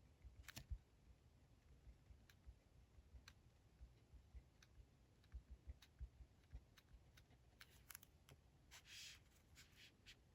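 Faint, scattered light clicks and taps of stationery being handled at a desk during diary decorating, with a brief papery scrape about nine seconds in.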